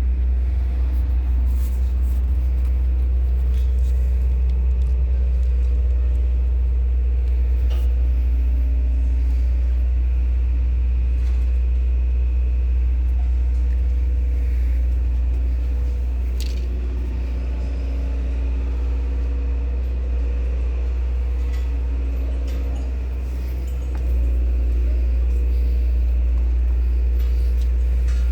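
New Holland 7610S tractor's four-cylinder turbo diesel engine running at a steady speed. It eases slightly for several seconds past the middle, then comes back up.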